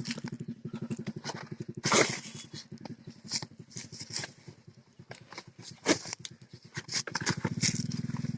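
An 8 HP single-cylinder diesel water-pump engine running with a fast, even thudding beat, with sharp clicks and knocks over it. It fades somewhat in the middle and comes back stronger near the end.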